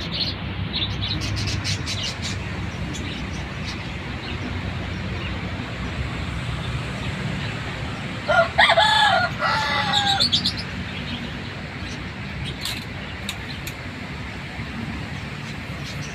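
A rooster crows once, about halfway through: a loud pitched call of about two seconds in several linked parts. Brief high chirps from a lovebird sound here and there over a steady background hiss.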